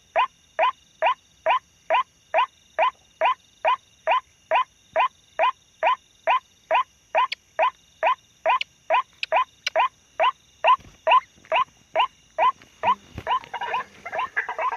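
White-breasted waterhen (ruak-ruak) call repeated in a fast, very even rhythm of about two and a half short calls a second, as used to lure the birds. Near the end the calling becomes busier and overlapping.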